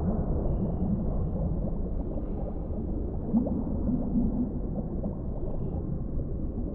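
Underwater ambience: a steady, muffled low rumble of water with bubbling, gurgling swells, strongest about three to four and a half seconds in.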